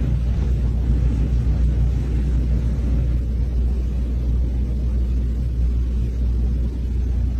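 Steady, unbroken low rumble, loud and deep.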